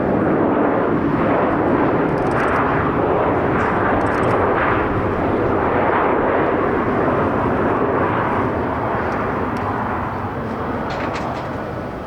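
Jet noise from a Boeing 737-800's twin CFM56 turbofans landing, a loud steady roar that eases off over the last couple of seconds.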